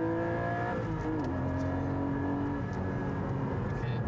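Porsche 718 Cayman GT4's naturally aspirated flat-six accelerating hard, heard from inside the cabin: the engine note climbs, drops with an upshift about a second in, then fades back as the car comes off the throttle.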